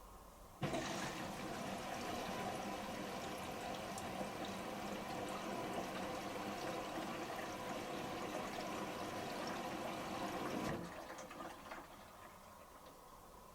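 Washing machine's water inlet valve opening and water rushing into the drum through the detergent drawer during the final rinse fill. It starts suddenly about half a second in, runs steadily, and cuts off about ten seconds later.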